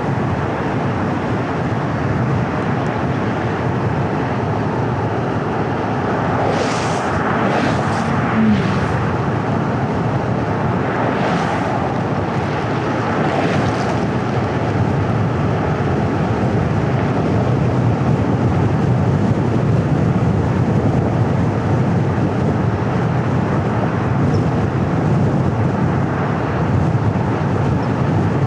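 Steady road and tyre noise of a car driving, with a low engine hum underneath. A few brief hissing swells come through about a quarter of the way in.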